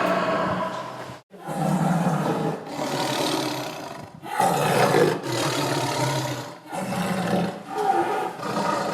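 Tiger roaring and growling: several long, rough roars one after another, each breaking off briefly before the next.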